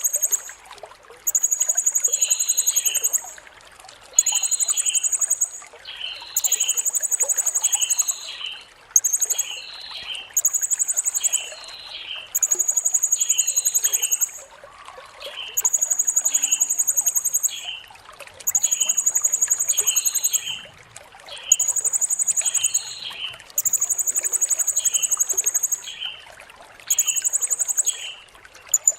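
Blue-crowned hanging parrot (serindit) singing: very high, buzzing trills of one to two seconds each, repeated about a dozen times with short pauses, with softer, lower chirps in between.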